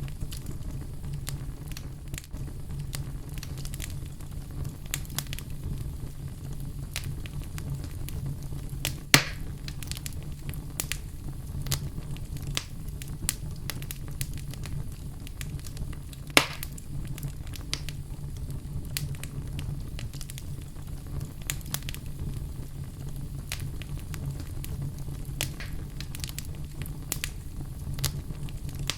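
Wood fire burning in a fireplace: a steady low rumble of flames with frequent small crackles, and two loud sharp pops, about nine and sixteen seconds in.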